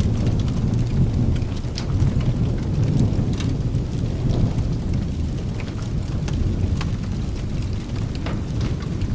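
Thunder rumbling low over steady rain, with scattered sharp ticks and crackles on top. The rumble swells in the first few seconds, then eases without dying away.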